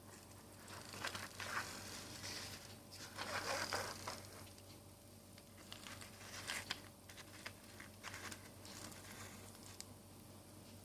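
Small toys being handled: irregular rustling and scraping, loudest in the first few seconds, then scattered light clicks.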